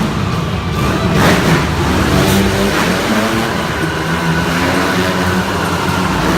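Several motorcycle engines revving continuously inside a steel globe of death, their pitch rising and falling as the riders circle.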